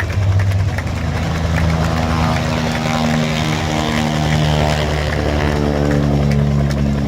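Propeller airplane's piston engine running, a steady low drone with evenly spaced engine tones.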